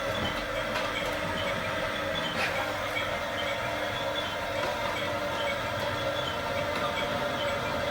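Small electric motors and gearboxes of a radio-controlled toy construction vehicle running with a steady whine.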